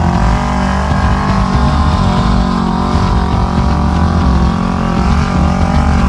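A side-by-side UTV's engine running steadily while the machine drives along a trail, its pitch rising and dipping a little with the throttle.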